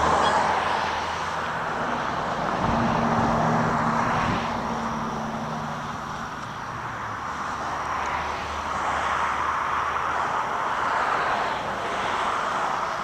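Wind rushing over the microphone of a moving electric bike, with tyre noise, swelling and easing. About three seconds in a low steady hum comes up for a couple of seconds.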